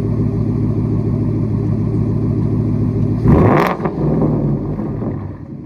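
Ford F-150's 5.0 Coyote V8 idling through a custom exhaust with the muffler and resonator deleted and an H and X pipe, then one short rev a little after three seconds in that drops straight back to idle.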